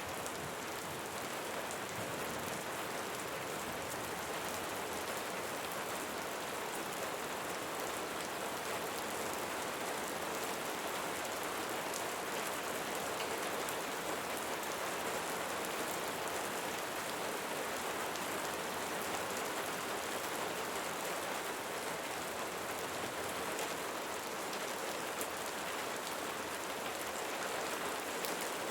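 Steady rain falling on surfaces, an even hiss of many small drops with no let-up.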